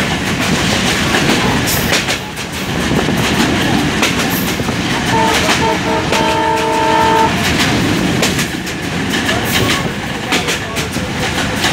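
Intercity passenger train running at speed, heard from an open carriage door: a steady rumble with irregular clacks of the wheels on the rails. About five seconds in, the locomotive horn gives a few short toots, then a longer blast of about a second.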